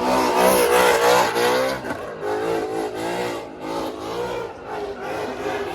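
Car engine revving hard with a wavering pitch. It is loudest for the first two seconds, then carries on less loudly.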